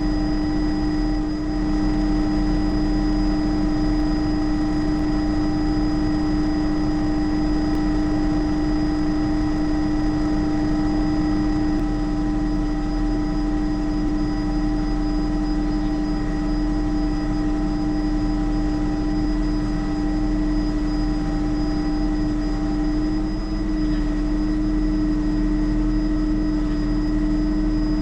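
Bell 206 JetRanger helicopter in cruise flight: the turboshaft engine and rotor make a steady drone. A strong constant hum sits over a low rumble, with fainter, higher steady whines that stay unchanged throughout.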